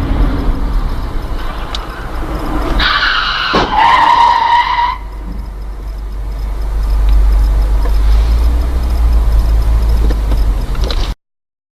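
Vehicle on the road with a steady low rumble. About three seconds in, a loud high-pitched squeal lasts about two seconds, with a sharp bang partway through it.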